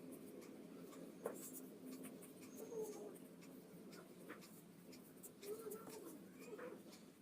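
Faint scratching of a pencil on paper while sketching, with light irregular strokes and ticks.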